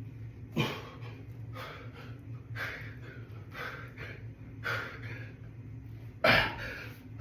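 A man breathing hard during push-ups, a forceful exhale with roughly each rep, about one a second. One sharper puff comes about half a second in and the loudest near the end.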